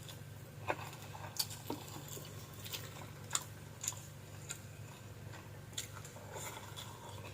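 A person chewing and eating fried fish close to the microphone: a dozen or so scattered short wet clicks and smacks, over a steady low hum.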